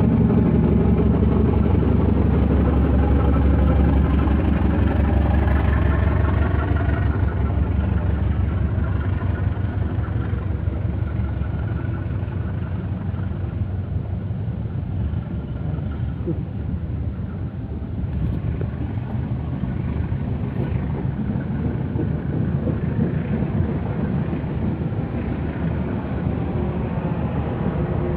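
CC201 diesel-electric locomotive's engine running with a loud, deep drone that slowly fades after about seven seconds as the train pulls out.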